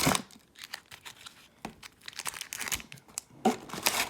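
Booster packs and their cardboard box being handled: scattered light crinkles of foil pack wrappers and small taps, with a louder crinkle about three and a half seconds in.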